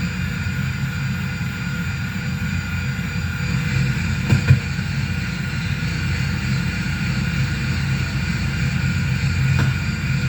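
Noise-music drone from a mixer-feedback rig with reverb and bass: a steady, dense low rumble with several sustained feedback tones above it, and a brief louder crackle about four and a half seconds in.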